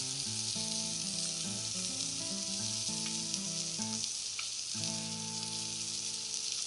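Food sizzling and frying in a hot pan, a steady hiss throughout. Background music with a simple melody plays underneath, with a short break about four seconds in.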